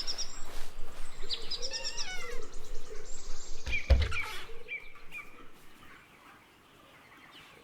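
Chicks cheeping in a run of short high peeps, some falling in pitch, with a single thump about four seconds in; the peeping fades out after about five seconds.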